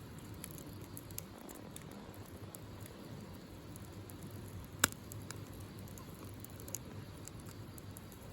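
Wood campfire burning: a steady low rustle of flames with scattered small crackles, and one loud sharp pop of the burning wood a little past halfway.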